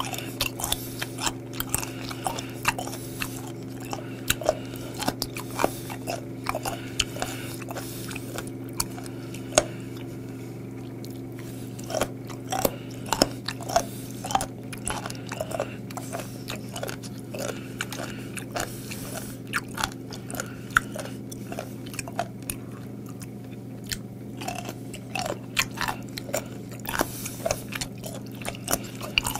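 Close-up chewing of crunchy raw seafood: a run of wet, snappy crunches from firm, chewy flesh and cartilage, easing off briefly around ten seconds in and again a little after twenty. A steady low hum sits beneath.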